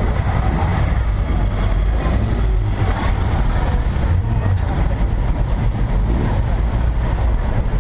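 Steady low rumble of a stationary car's engine idling, picked up through the bonnet the camera is mounted on.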